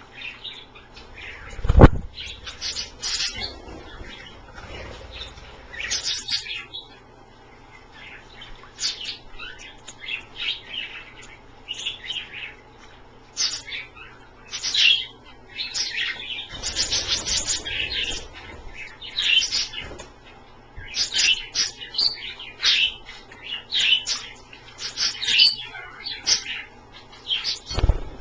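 Pet budgies and cockatiels chirping and chattering in quick, short high calls, on and off throughout. One sharp loud thump about two seconds in.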